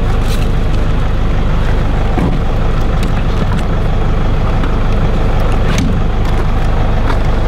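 Toyota Hilux engine idling steadily while the vehicle is stopped, with a few light clicks and knocks over it.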